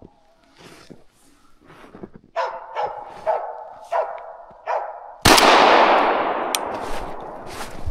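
A hunting dog barking in short, repeated barks at a capercaillie, followed about five seconds in by a single loud shotgun shot that echoes and dies away over a couple of seconds.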